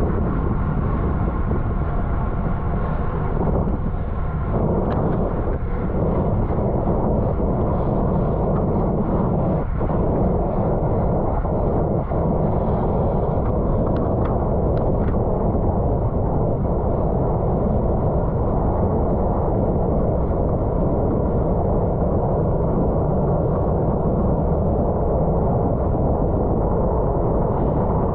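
Wind rushing over a bicycle-mounted camera's microphone at racing speed, mixed with tyre and road noise: a steady, loud, low rumbling noise with a few faint clicks.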